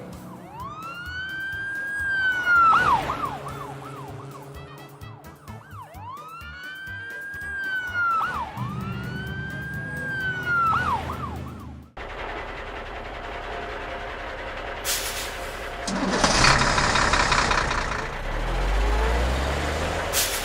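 Police car siren sounding twice in a slow wail, each wail rising, holding and falling and then breaking into a fast yelping warble, over low background notes. About halfway through it cuts off suddenly into a louder, noisy rumble with a low rising tone near the end.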